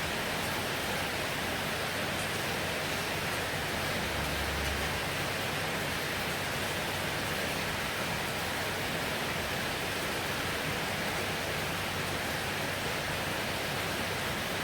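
Heavy rain falling steadily, a dense even hiss with no let-up, with a brief low rumble about four seconds in.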